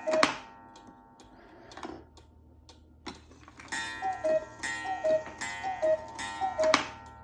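Mechanical cuckoo clock with an 8-day Regula movement calling: the falling two-note cuckoo call from its bellows pipes, once at the start and then four times in a row from about four seconds in, over the movement's ticking.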